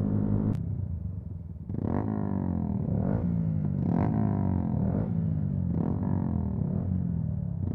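Motorcycle engine revved in a string of quick throttle blips, about one a second, the revs falling away after each, following a steady run and a brief drop in engine note.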